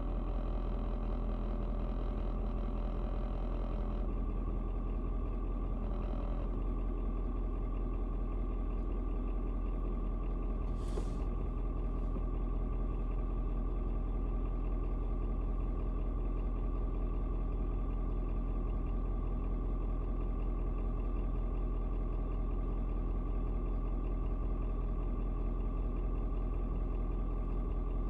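Ford 6.7 L Power Stroke V8 turbo diesel idling steadily after a cold start, its idle settled down now that it is warmed up and good to go.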